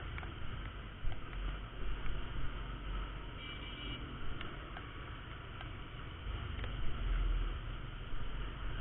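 Riding noise from a Honda Verza 150 motorcycle in traffic: a steady rumble of engine, wind and road that swells twice, with a few light clicks and a short high tone about three and a half seconds in.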